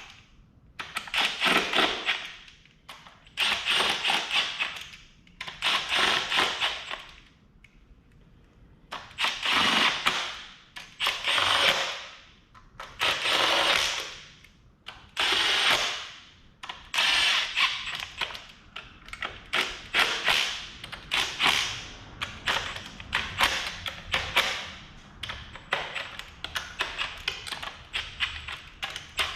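A power tool run in repeated short bursts, each about a second long with brief pauses between, each with a fast rattle inside it.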